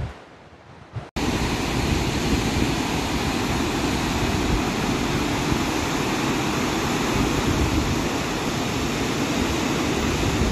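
Steady rushing roar of a large waterfall, cutting in abruptly about a second in after a quieter moment.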